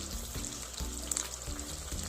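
Background music with a simple melody of low notes, over oil sizzling and crackling steadily as cornflour-and-egg-battered chicken pieces deep-fry.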